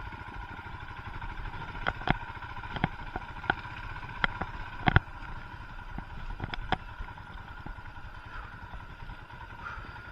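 Royal Enfield Himalayan's 411 cc single-cylinder engine running at low speed on a muddy track, with a string of sharp knocks and clatters from the bike in the middle few seconds.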